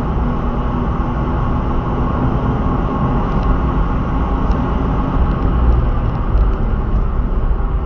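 Turbocharged car running continuously, its engine and road noise making a loud, steady din with a low hum.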